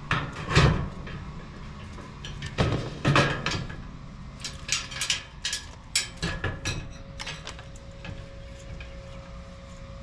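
A series of irregular knocks and clunks, the loudest about half a second in and about three seconds in, with a run of smaller clicks in the middle.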